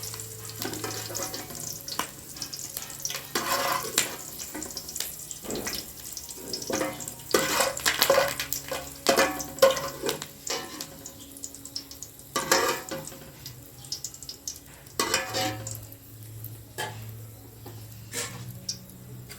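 Oil sizzling in a cooking pan while a metal spoon stirs and scrapes against it, with frequent sharp clicks and scrapes.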